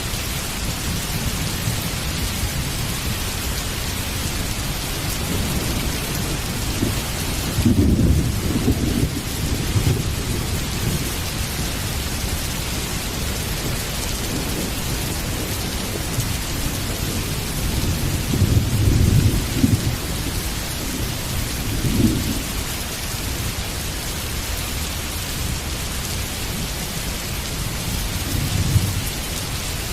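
Heavy rain falling steadily, with rolls of thunder rumbling over it: a loud roll about a quarter of the way in, a longer one past the middle, a short one just after, and a fainter one near the end.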